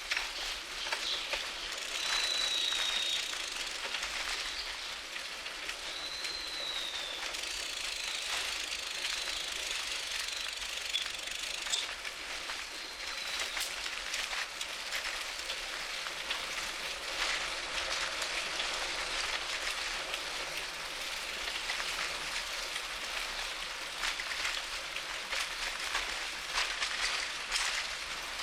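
Bicycle riding along a paved path: a steady hiss of tyres and wind with constant fine rattling and clicking from the bike and the mounted camera. A bird gives a few high whistled notes in the first half.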